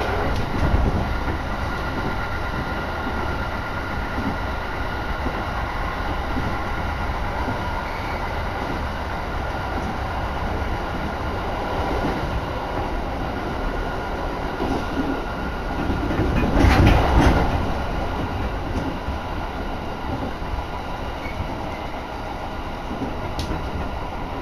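Running noise heard from inside a moving train car: a steady rumble of wheels on the rails, swelling briefly to its loudest about two-thirds of the way through.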